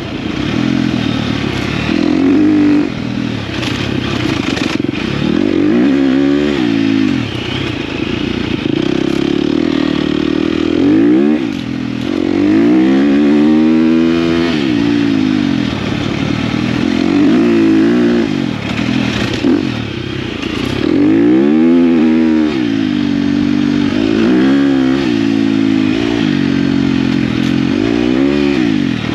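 KTM dirt bike engine being ridden, the revs rising and falling over and over as the rider opens and closes the throttle and shifts gears.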